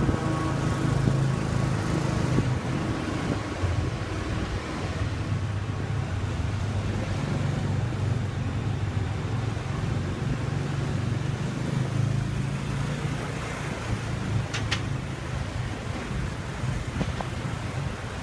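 Motorbike taxi's scooter engine running under way, with wind and road noise and the surrounding traffic. A short sharp click comes near the end.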